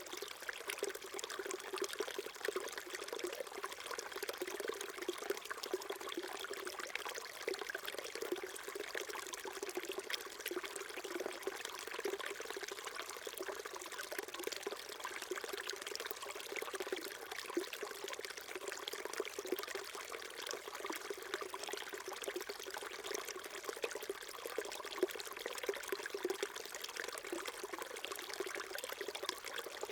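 A small mountain stream trickling and burbling over stones, a steady babble of water.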